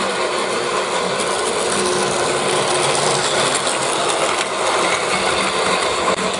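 Battery-powered Plarail toy train running, its small motor and plastic gears giving a steady mechanical rattle.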